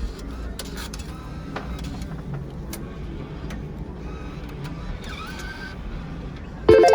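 Casino slot-floor background: a steady low rumble with scattered clicks and faint electronic slot-machine tones. A short, loud burst of machine tones comes near the end.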